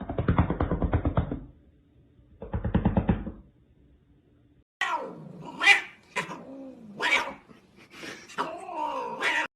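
An angry cat growling in two short, rapidly pulsing spells, then letting out a run of drawn-out yowls that rise and fall in pitch.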